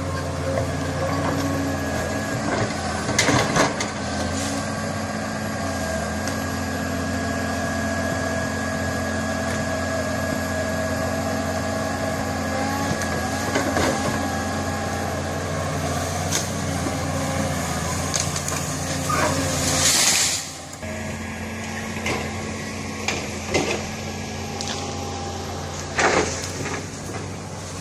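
Heavy machine's diesel engine running steadily under work, with a high whine over it, a few sharp knocks, and a loud hiss of air about 20 seconds in, after which the engine drops lower.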